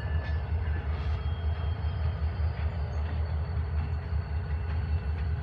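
Union Pacific manifest freight train running by with a steady low rumble.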